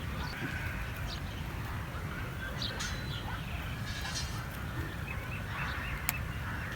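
Scattered short farm-animal calls over a steady low rumble, with a sharp click about six seconds in.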